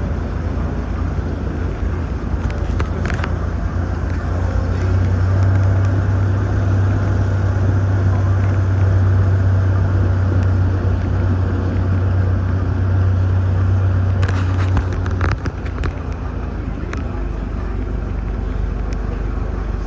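A motor vehicle running, with a steady low drone that grows louder about four seconds in and eases off after about fifteen seconds.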